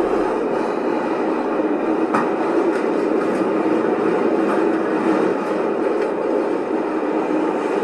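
New York City subway car running along the track, a steady rumble of wheels on rail heard from inside the car, with a few faint clicks here and there.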